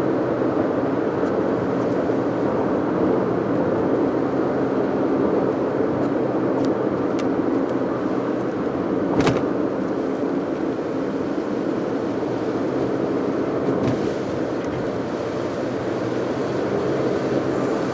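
A car driving at a steady pace: continuous engine and road noise, with one sharp click about nine seconds in.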